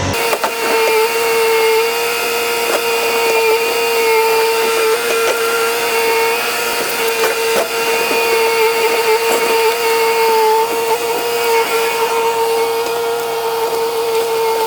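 A motor running at a steady speed with a high whine, with scattered clicks and knocks over it.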